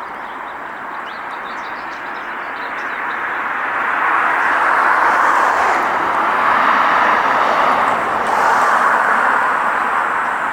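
Road traffic noise from vehicles passing on the street, swelling louder about four seconds in and staying up for most of the rest.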